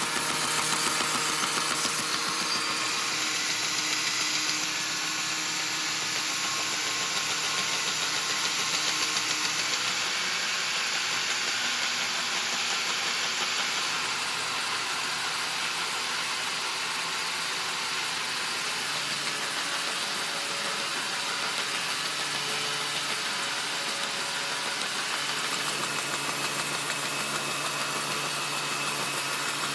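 Steady, unbroken machine running noise, an even roar spread widely without pauses.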